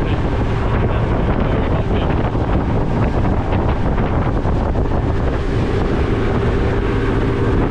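Wind buffeting the microphone aboard a speedboat under way, over the steady run of the boat and rushing water.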